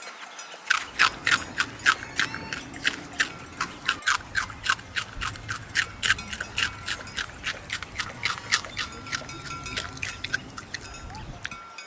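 Rabbit chewing food: a fast run of crisp crunching bites, about four to five a second.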